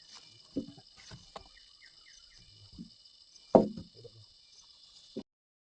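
Steady chirring of insects with a few faint chirps, broken by several dull knocks, the loudest about three and a half seconds in; the sound cuts off abruptly near the end.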